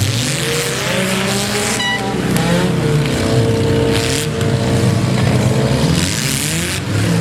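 Demolition derby cars' engines revving hard, their pitch rising and falling, with several short bursts of rushing noise.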